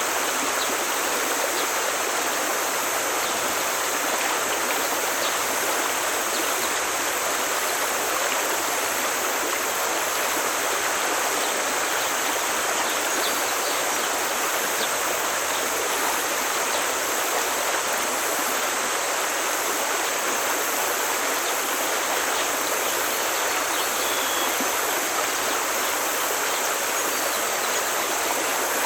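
Forest stream rushing steadily, an even, unbroken water noise.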